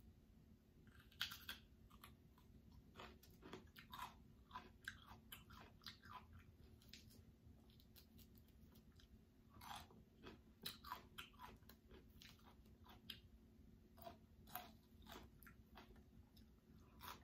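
Faint close-up eating sounds: chewing with small, irregular mouth clicks and crunches, a few a second, louder about a second in and again near the middle.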